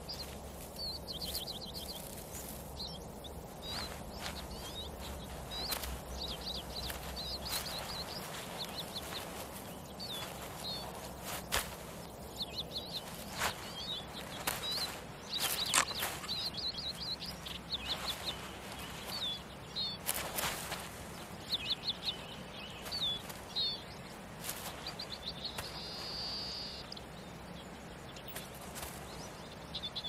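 Small birds chirping in short high trills and calls throughout, over a faint outdoor background, with scattered sharp knocks and rustles.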